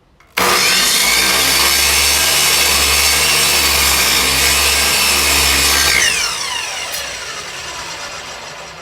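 Electric miter saw switching on abruptly about half a second in and running through a wooden block for about five and a half seconds, then released and spinning down with a falling whine.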